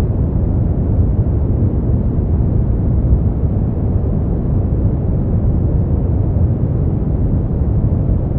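Brown noise: a steady, deep rumbling hiss, with most of its weight in the bass and little above the midrange, unchanging throughout.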